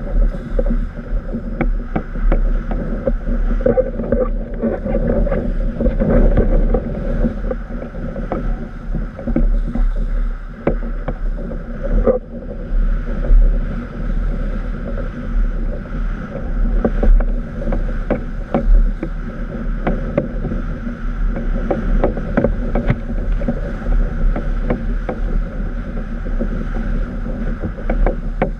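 Strong wind buffeting the microphone while a windsurf board rushes over choppy water, with many small splashes and slaps of water against the board.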